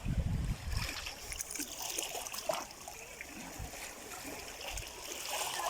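Sea water splashing and trickling, with small irregular splashes throughout and a low rumble in the first second.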